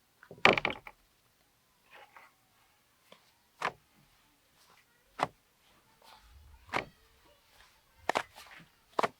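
A loud clatter about half a second in, followed by single sharp knocks or taps every second or so.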